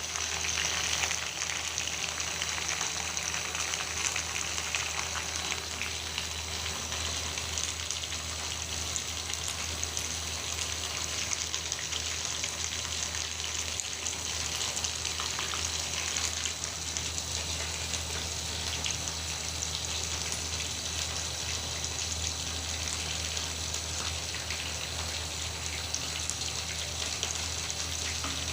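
Food sizzling and crackling steadily in hot oil in a pan, over a steady low hum.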